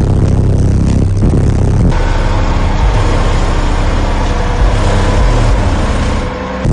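Very loud, deep bass from a truck's subwoofer system of eight 12-inch subwoofers, with low notes that shift a few times.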